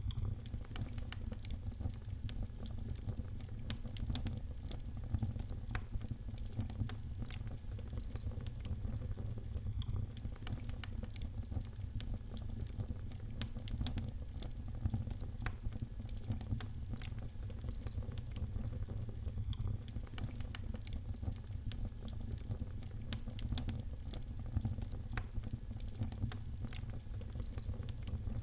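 Wood fire burning in a fireplace, crackling steadily with many small pops over a continuous low rumble of the flames.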